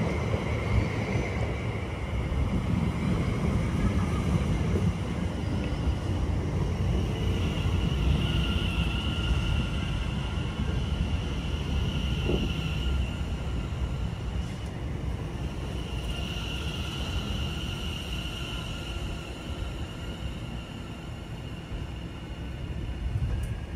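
Greater Anglia electric multiple-unit train moving slowly alongside the platform: a steady rumble with a high whine that swells twice, the noise easing near the end as the train comes to a stand.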